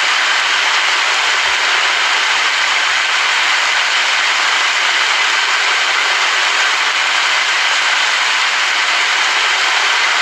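Steady rain: an even, unbroken hiss with no thunder or other separate sounds.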